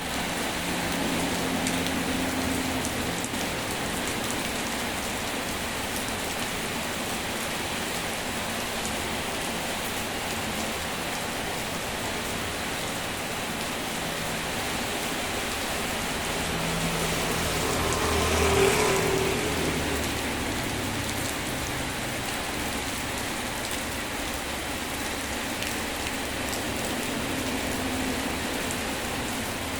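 Steady rain falling, an even hiss throughout, with a faint low hum beneath it. The sound swells once and fades again about two-thirds of the way through.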